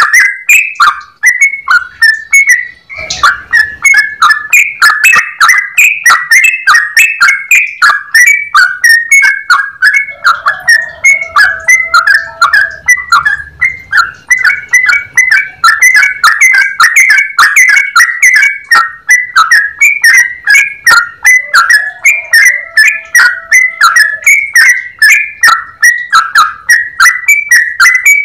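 Yellow-vented bulbul (trucukan) singing in a long, rapid, unbroken run of short clear chirping notes, several a second: the continuous 'ropel' song used as a lure and tutor recording.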